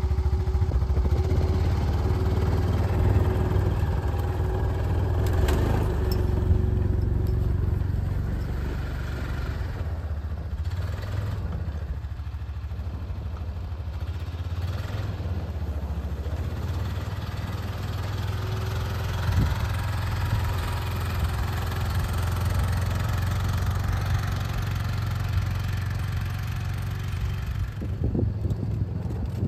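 An engine running steadily with a low drone and a faint steady hum above it.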